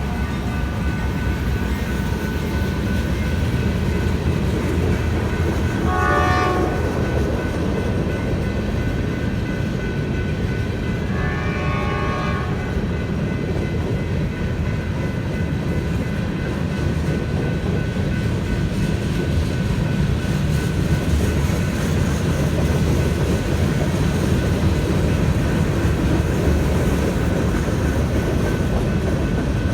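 Freight cars of a manifest train rolling past at a grade crossing, a steady heavy rumble of wheels on rail. The locomotive horn sounds two more short, fainter blasts, about six and twelve seconds in.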